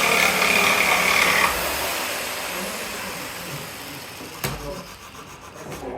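An electric woodworking power tool's motor running with a steady whine, switched off about a second and a half in and winding down gradually. A single sharp click follows near the end.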